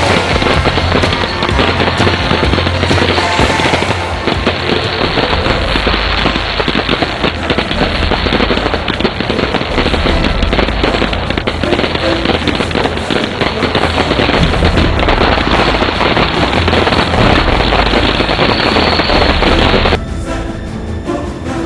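A fireworks finale of artillery shells and cakes firing in quick succession, a dense run of bangs and crackle mixed with music. About two seconds before the end the bangs drop away and the music carries on.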